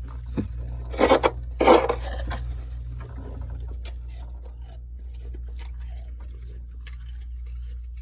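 Frost being bitten and crunched in the mouth: two loud crunches about a second in, then softer crackling chews. A steady low hum runs underneath.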